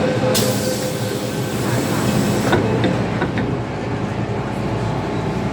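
MTR M-Train electric multiple unit running underground, heard from inside the passenger car: a steady rumble with a hum. A high hiss for about two seconds near the start, and a few short clicks a little after.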